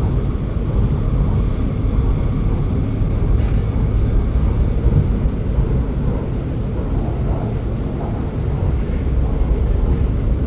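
Inside the carriage of an MRT Putrajaya Line metro train in motion: a steady low rumble of the running train, with a faint click about three and a half seconds in.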